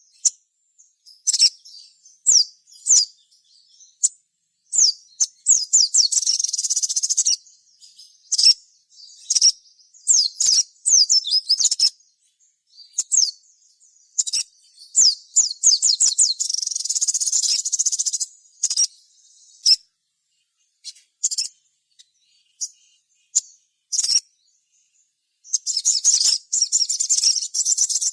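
Sogon (sogok ontong) bird singing: quick, high chirps and trills, breaking three times into longer runs of rapid song about ten seconds apart, with short pauses between phrases.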